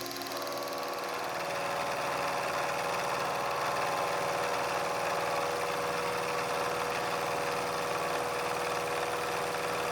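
A shop machine starts up and runs steadily with a steady whine over a mechanical hum, building over the first couple of seconds.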